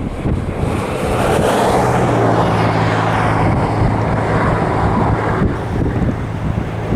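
Pacific National freight train hauled by NR class diesel-electric locomotives passing, with a steady engine drone under the rolling noise of the train. The rolling noise swells from about a second in and eases after about five seconds, with wind buffeting the microphone.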